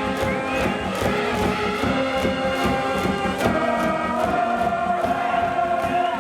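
School brass band playing a cheering tune from the stands over a steady drum beat, with the crowd of supporters chanting along.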